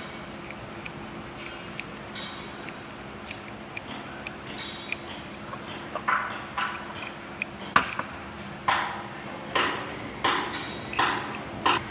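Metal tools and engine parts clinking and tapping: light clicks at first, then from about halfway a series of sharper ringing metal strikes about once a second, over a steady low hum.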